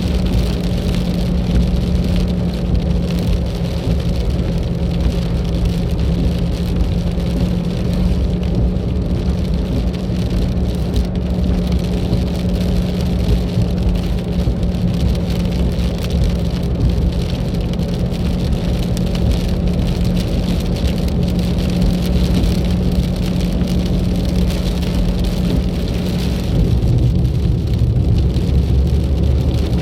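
A car being driven at speed, heard from the vehicle: a steady engine drone with a constant low tone under a continuous hiss of tyre and road noise. A deeper rumble comes up near the end.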